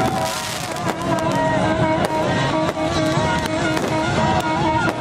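Fireworks going off in repeated sharp bangs and crackles, mixed with music carrying a wavering melody.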